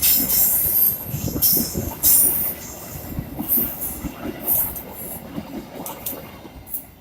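Train running past on the track: a low rumble of wheels on rails with repeated short, high-pitched squeals from the wheels, loudest in the first two seconds and growing quieter after that.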